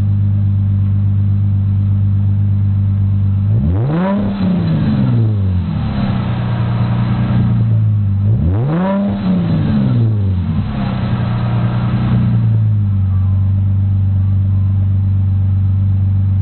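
Dodge Charger 2.7 L V6 idling through a Magnaflow straight-through muffler with no resonator, revved twice, about four and eight and a half seconds in, each rev climbing and falling back to idle over about two seconds.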